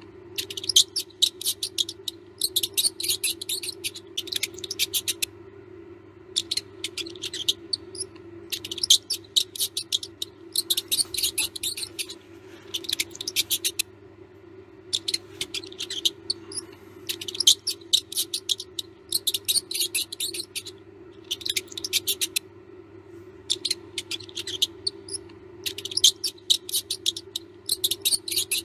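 Mouse squeaking in rapid, high chirps that come in bursts of a second or two with short pauses between, over a steady low hum.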